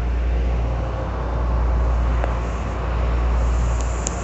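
Miami-Dade Metrorail car heard from inside, its running gear giving a steady low rumble that swells and eases as the train runs along the elevated track. A few short clicks come near the end.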